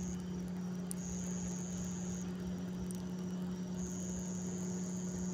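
Night insects trilling high in repeated stretches of about a second and a half, over a steady low hum.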